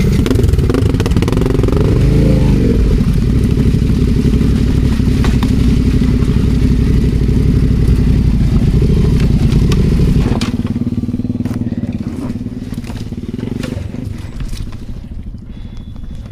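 Adventure motorcycle engine running at low revs, its pitch wavering briefly near the start, with tyres crunching and clicking over loose stones. About ten seconds in the engine sound drops and fades away.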